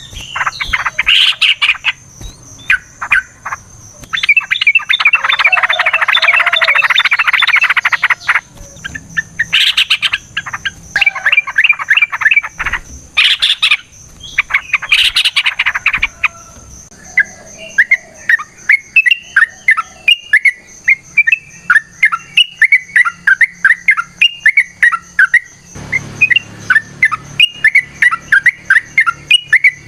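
Yellow-vented bulbuls (trucukan) singing in long, fast, chattering phrases. Dense loud bursts come in the first half, then from about halfway a steady run of quick repeated chirps.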